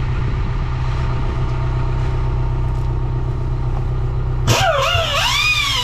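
Air-driven tyre buffer running steadily while it buffs the inside of a tyre around a puncture, a loud, even drone. About four and a half seconds in, music with sliding pitches comes in over it.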